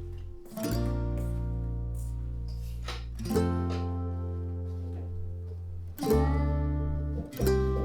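Background music: a strummed plucked-string instrument over a deep bass, with a new chord struck every few seconds and left to ring.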